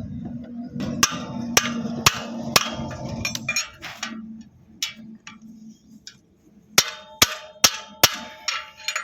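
Hammer striking metal: four sharp blows about half a second apart over a low hum, then after a pause four more blows that ring.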